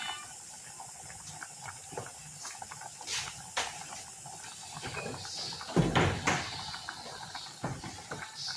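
A pot of chicken stew simmering while it is stirred: a low hiss with scattered light clinks and scrapes of the utensil on the pot, and one louder knock about six seconds in.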